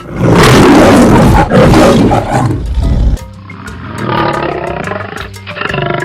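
Lion roaring: one loud, long, rough roar over the first three seconds, then two shorter, quieter calls. Background music plays underneath.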